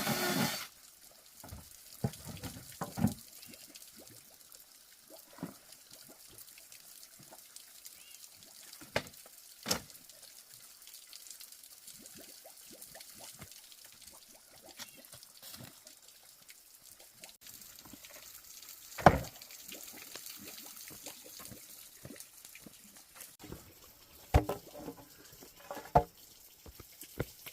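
Scattered drips and small sharp knocks over a faint hiss, irregular, with one louder knock about two-thirds of the way in and a few more near the end.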